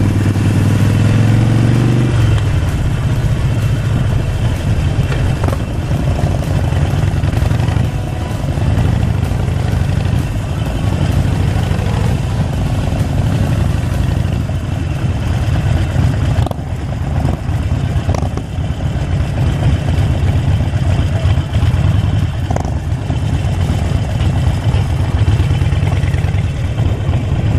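Harley-Davidson Sportster Forty-Eight's V-twin engine running as the motorcycle is ridden, under a constant rush of road noise. For the first two seconds the engine note is clear and steady, then it turns rougher and noisier.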